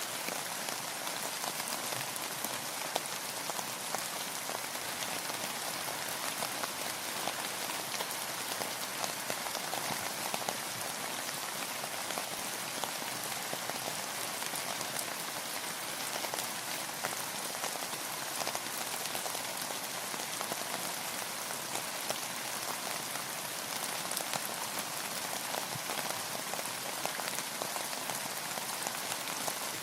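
Steady rain falling on a surface, a constant hiss of drops with many small individual drop ticks and no change in intensity.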